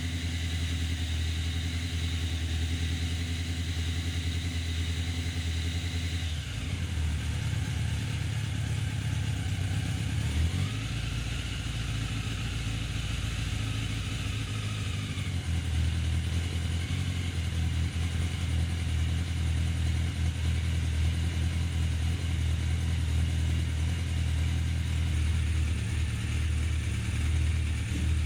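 Yamaha FZ750 inline-four motorcycle engine running steadily at low revs, its note shifting a few times: the engine freshly mounted in the frame and running for the first time.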